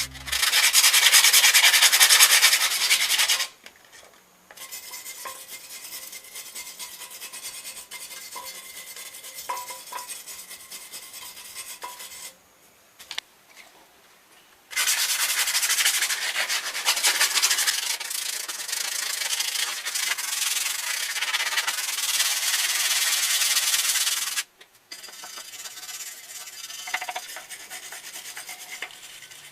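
Rusty metal generator parts being scrubbed by hand with an abrasive, a steady rasping scrub with no motor tone. It comes in several stretches: loud for the first few seconds and again from about 15 to 24 seconds, quieter in between, with abrupt gaps where the sound cuts off.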